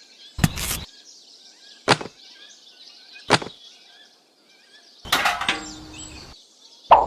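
Three sharp knocks about a second and a half apart, then a short scraping rattle a little after the middle, with faint bird-like chirps behind. Near the end come quick, evenly spaced knocks.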